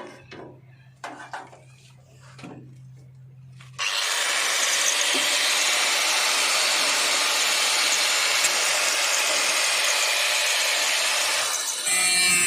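Power cutting tool starts about four seconds in and runs steadily, cutting through the sheet-metal engine-room section of a Maruti 800 body. Before it starts there is a low steady hum and a few light clicks. The cutting sound changes near the end.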